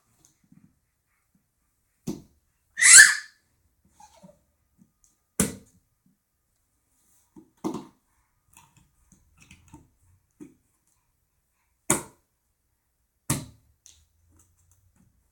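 A baby's hands tapping and slapping a cardboard box: a handful of separate taps a second or more apart. About three seconds in comes one longer, louder, brighter sound.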